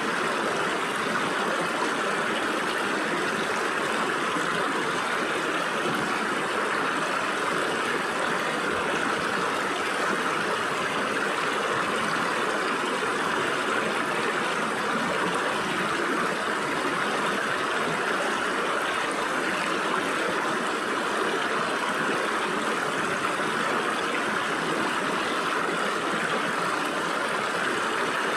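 Stream water flowing through gaps between rocks: a steady, even rush and gurgle with no breaks.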